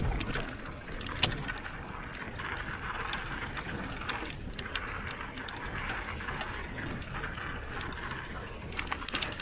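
A 150 mm-travel full-suspension mountain bike descending a dirt trail at speed: a steady rush of tyre and trail noise with irregular clicks and rattles from the chain and bike over bumps, and a louder knock about a second in.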